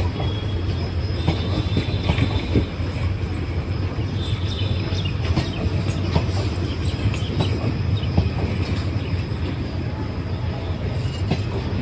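Passenger coaches of a long train rolling past on curved track: a steady rumble of wheels on rails with scattered clicks, and a thin high flange squeal that comes and goes a couple of times.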